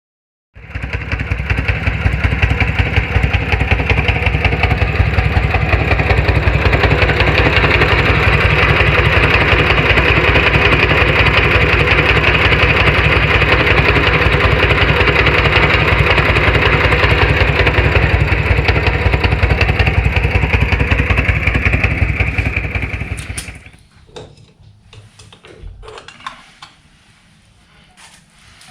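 Harley-Davidson Shovelhead V-twin engine running with an even, rapid pulse, then shut off about 23 seconds in. A few light clicks and knocks follow.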